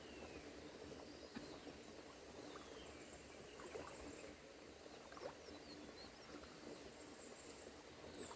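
Faint outdoor ambience, close to silence, with a few faint, high, falling chirps typical of distant birds and a few light clicks.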